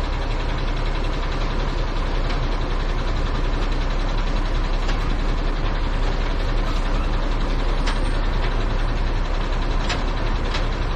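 Heavy truck's diesel engine idling steadily, with a few short clicks in the last few seconds.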